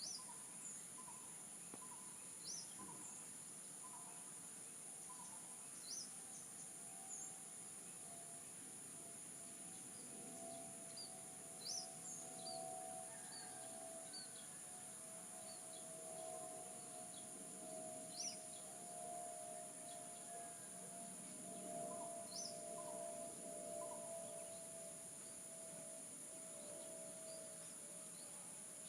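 Faint outdoor ambience: a steady high insect drone, with short bird chirps every second or two. A faint steady lower tone comes in about a quarter of the way through.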